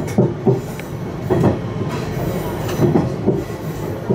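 KiHa 110 diesel railcar running along the track, heard from inside the front of the car: a steady rumble with a clack of wheels over rail joints every second or so.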